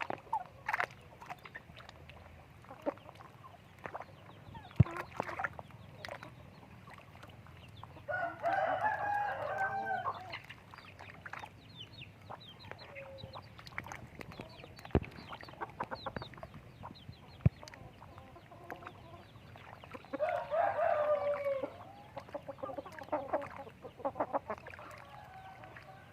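Chickens clucking, with a rooster crowing twice, each crow about two seconds long. Short clicks and knocks are scattered between the calls.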